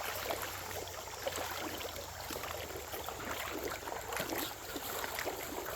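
Shallow creek water running and splashing, a steady trickling wash with small irregular splashes throughout.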